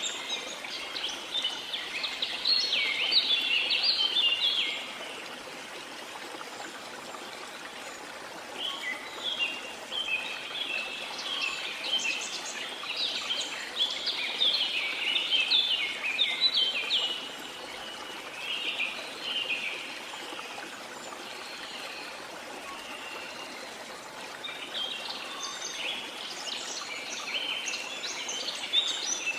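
Waterfall with a steady rush of water, and birds singing over it in bouts of quick, high chirping phrases that pause about five seconds in and again for a few seconds past the middle.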